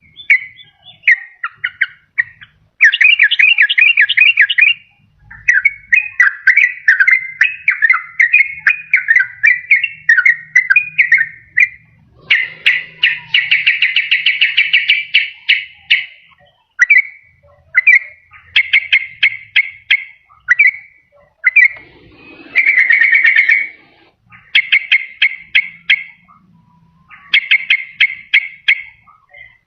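Yellow-vented bulbul (trucukan) song played as a lure call: loud, rapid chattering and bubbling phrases, repeated with short pauses between them.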